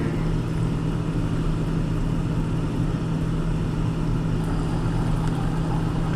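Car driving, with a steady low engine drone and road noise.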